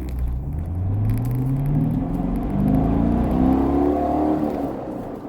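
C7 Corvette's 6.2-litre V8 pulling under acceleration, its pitch rising steadily for about four seconds, then falling away near the end.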